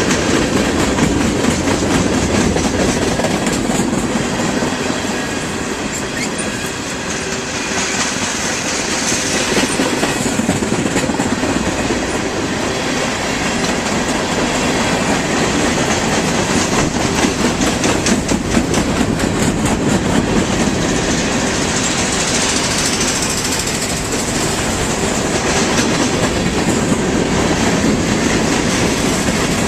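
Railroad cars rolling along the track: continuous wheel-on-rail noise with rapid clickety-clack of wheels over rail joints, most dense about halfway through.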